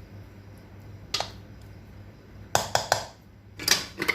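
A utensil clinking and scraping against a cooking pot while rice is spooned in: a single sharp clink about a second in, a quick run of three or four clinks midway, and a longer scrape with clinks near the end.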